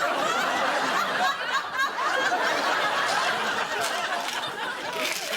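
An audience laughing together after a comedy punchline, a dense steady wash of many voices that eases slightly near the end.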